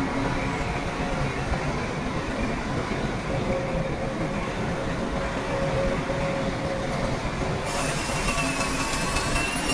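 Shantui crawler bulldozer working, its diesel engine running steadily under the clatter and squeal of its steel tracks.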